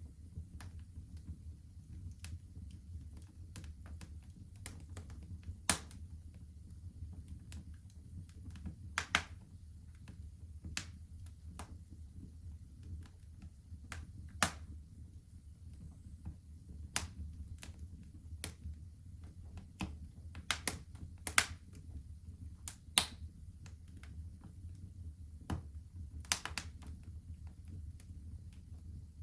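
Wood fire crackling in a fireplace: irregular sharp pops and snaps, a handful much louder than the rest, over a steady low rumble.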